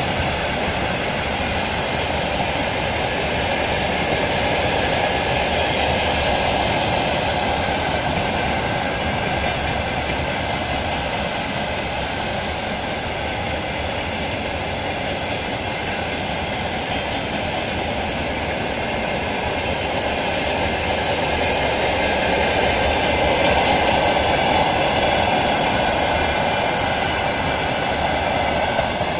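Freight train wagons, tank cars and open wagons, rolling past on the rails: a steady rolling noise of steel wheels on track, swelling a little about three-quarters of the way through.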